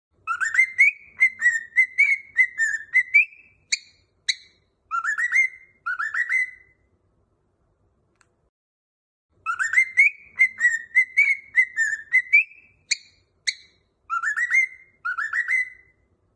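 Cockatiel whistling a song phrase of quick swooping, rising notes with a couple of sharp clicks. After a pause of about three seconds it repeats nearly the same phrase.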